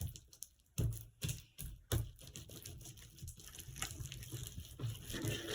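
White-glue slime being kneaded and squeezed by hand, giving irregular wet clicks and squelches.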